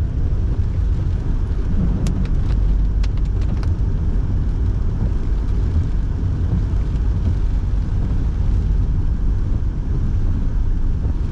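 Steady low road and engine rumble inside a moving car's cabin, with the heater fan running. A few faint sharp ticks come between about two and four seconds in.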